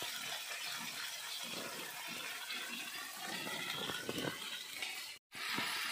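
Ground spice paste sizzling as it fries in hot oil in a kadhai, stirred with a flat spatula: a steady hiss that drops out for an instant near the end.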